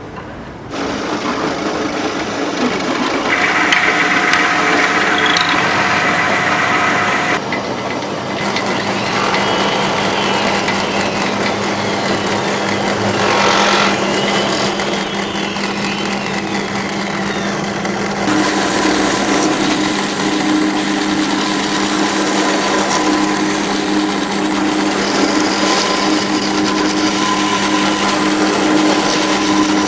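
Instrument-making workshop noise: power tools and hand tools working on wood, layered over steady hums. The texture changes abruptly about 3, 7 and 18 seconds in.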